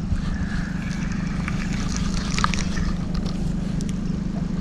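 Boat motor running steadily with a low, even hum, and a few faint clicks over it.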